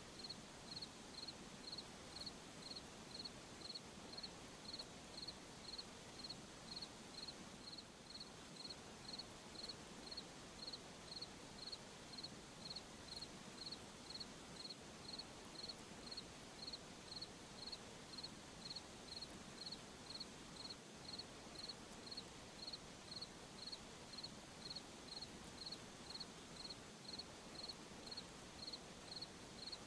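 A cricket chirping, evenly and rhythmically, a little over one high chirp a second, over a soft steady background hiss.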